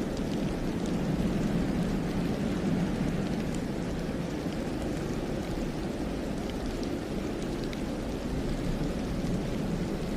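Steady low wind rumbling through a snowy forest, with faint, scattered light ticks over it.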